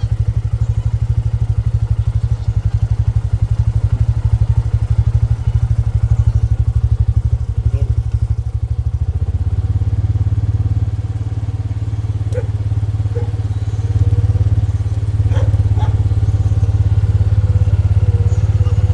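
An engine or motor running steadily with a low, even pulsing; its note changes about halfway through.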